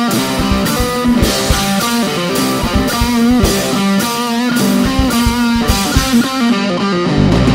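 A rock band playing an instrumental passage: an electric guitar melody over drums and bass.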